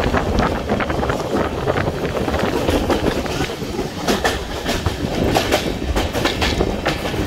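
Passenger express train running along the track, its wheels rumbling and clacking over the rails. A run of sharp clicks comes thicker in the second half.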